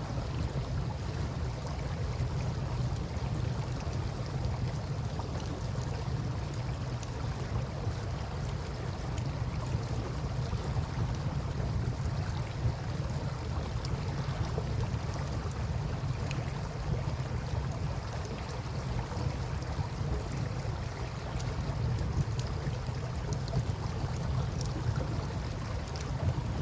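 Campfire burning, with scattered small crackles and pops from the wood, over a steady low rumble.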